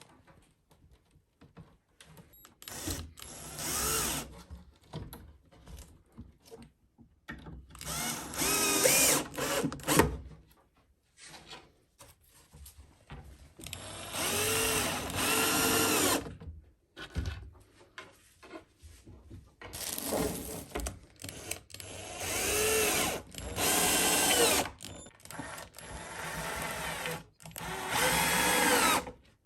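Electric power drill run in about seven short bursts of one to two seconds each. Its motor whine rises, holds and falls with each squeeze of the trigger, with small handling knocks in the pauses between.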